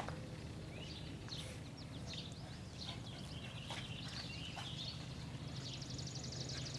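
Small birds chirping outdoors, with a fast, evenly spaced high trill coming in a little past the middle, over a steady low hum.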